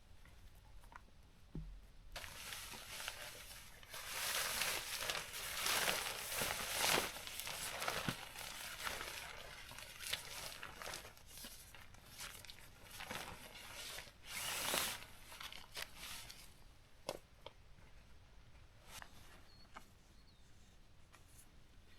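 Nylon tent fabric rustling and crinkling as it is handled and pulled out, in a long stretch of bursts with a louder swish about two thirds of the way through, then only a few small clicks near the end.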